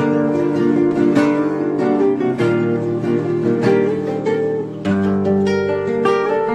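Acoustic guitar music: plucked and strummed chords, with a new chord struck about every second and a bit.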